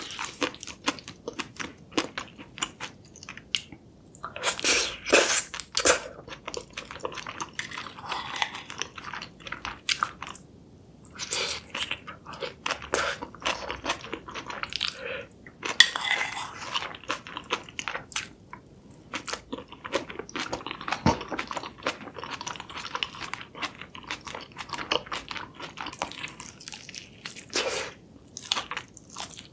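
Close-miked eating: chewing of jjajangmyeon black bean noodles and of a sauce-coated spicy chicken leg, with many sharp crunches and wet mouth clicks coming in irregular clusters.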